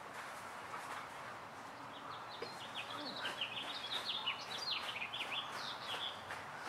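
A small songbird chirping: a quick run of short, high notes starting about two seconds in and stopping near the end, over faint outdoor background noise.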